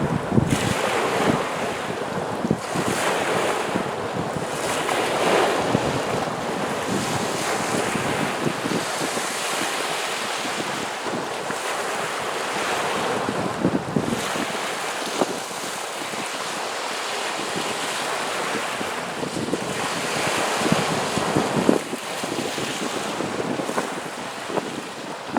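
Wind-driven waves washing against the shore of a salt lake, the surf rising and falling in swells every few seconds, with strong wind buffeting the microphone.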